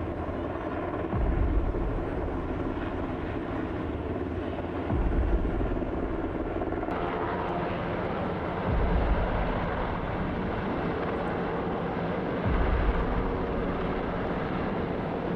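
Helicopter running: steady engine and rotor noise, with a deeper swell in loudness about every four seconds.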